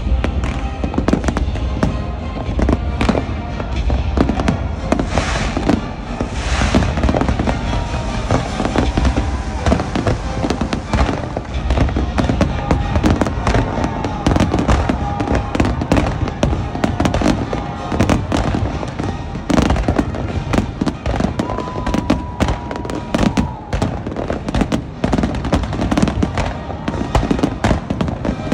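A fireworks display: bangs going off in quick, unbroken succession, with music playing underneath.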